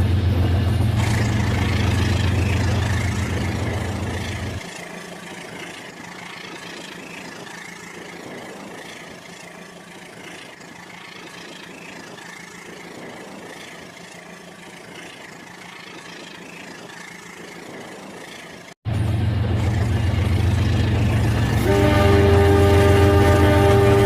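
Battery toy train running with a steady motor drone. The drone drops away after about four and a half seconds and comes back after a brief cut near the end. A horn-like electronic tooting from the train's sound effects plays over it at the very end.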